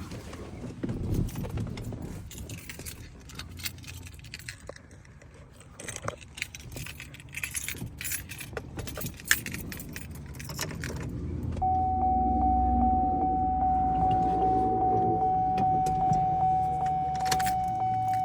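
Keys jangling and rattling with scattered clicks and knocks for about the first eleven seconds. Then a steady single-pitched electronic tone comes on and holds to the end, over a low hum, just before the engine is cranked.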